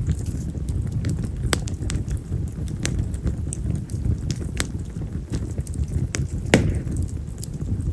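Split wild cherry (yamazakura) firewood burning in an open fire: a steady low rush of flame with frequent sharp crackles and pops, the biggest pop about two-thirds of the way through. Yamazakura is a wood that crackles loudly, like firecrackers.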